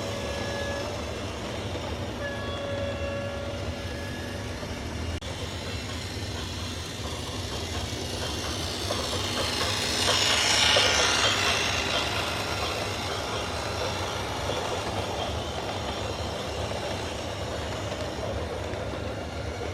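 Heavy machinery rumbling steadily, with two long, steady horn blasts near the start and a rushing swell of noise about halfway through.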